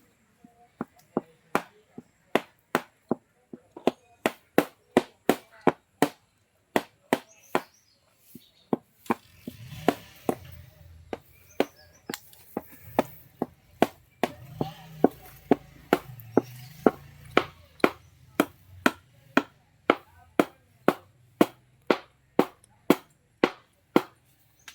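Hammer blows struck over and over at about two a second, with a couple of short pauses, while a tractor wheel bearing is being replaced.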